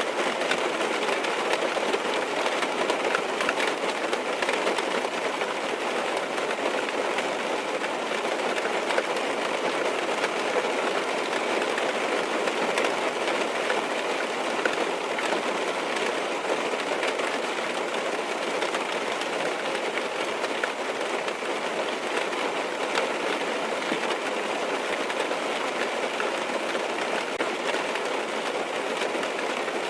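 Steady rain falling on a car's roof and windows, heard from inside the cabin as a dense, even patter.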